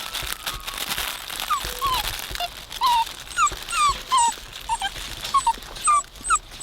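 Puppy whining: a run of short, high whines, about two a second, starting a second and a half in, over a rustling, crackly noise.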